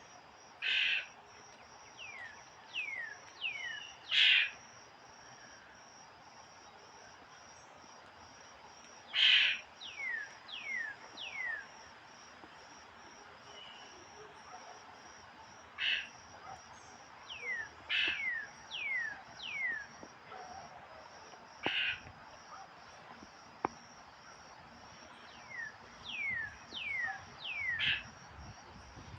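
A bird calling: short loud calls every few seconds, mixed with runs of two or three clear whistled notes that slide downward. A steady high insect drone runs underneath.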